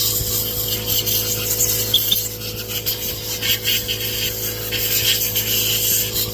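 Irregular scraping and rubbing strokes over a steady low hum.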